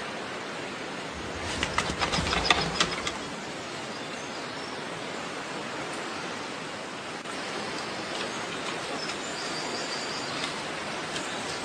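Steady outdoor background noise with no animal call, broken by a short run of clicks and rustles about two seconds in.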